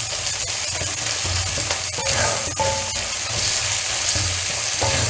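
Chopped onion and tomato sizzling in hot oil in a kadai while being stirred, with a spoon scraping and tapping the pan now and then.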